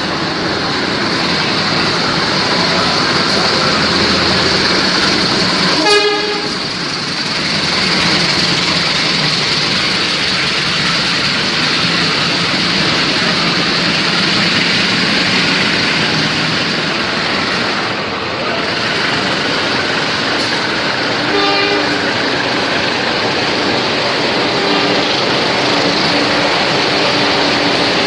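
Kereta Api Serayu passenger train running alongside the platform, its coaches making a loud, steady rolling noise. A short horn toot sounds about six seconds in, and another short tone around twenty-one seconds.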